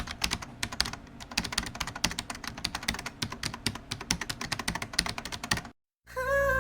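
Fast typing on a keyboard: a rapid, uneven run of key clicks that stops short, followed after a brief silence by the start of music near the end.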